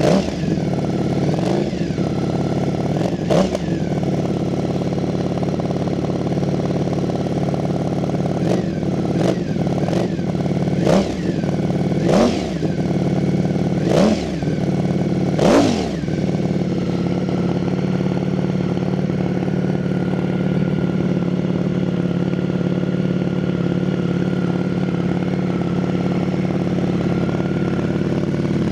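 Ducati Streetfighter V4S's 1103 cc V4 engine, through an Arrow titanium exhaust, idling shortly after a cold start, its first start in a couple of weeks. About ten quick throttle blips rise and fall over the first sixteen seconds, then it settles into a steady idle.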